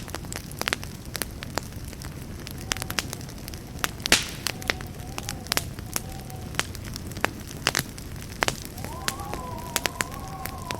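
Campfire crackling, with irregular sharp pops over a steady low rumble of flames; the loudest pop comes about four seconds in. A faint wavering whistle rises near the end.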